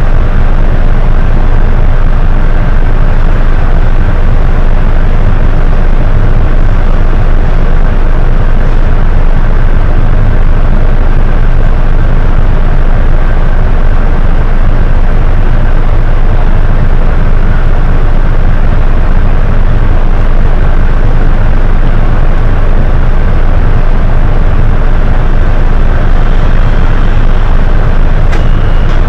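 Hino HS8JRVL city bus's diesel engine and drivetrain running steadily with a loud low rumble as the bus drives. Near the end a high electronic beeping starts.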